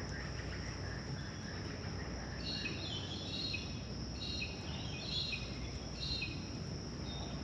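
Creek-side ambience: a bird chirping in short repeated phrases from a few seconds in until near the end, over a steady high-pitched insect drone and a low background rumble.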